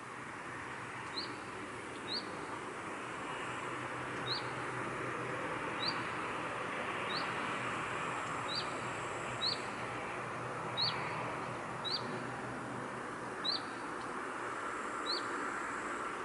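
A small bird repeating a single short, sharp chirp about every second or so, over a steady rushing hiss of outdoor ambience.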